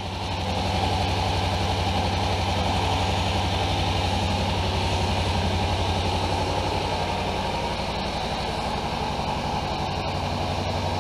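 Kawasaki Ninja 300 SE's parallel-twin engine idling steadily through its stock muffler, freshly started after winter storage.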